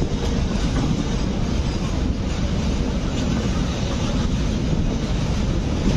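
Steady running noise of a moving passenger train, the Agra Fort–Lucknow Intercity Express, heard from its open doorway: a continuous rumble of wheels on rail.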